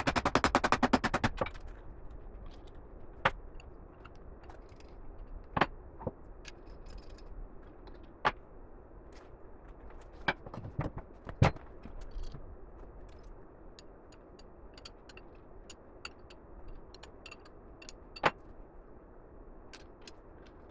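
A rapid, machine-gun-like run of sharp metallic hits for about the first second and a half. After it come scattered single clinks and knocks of metal tools and parts being handled on a workbench.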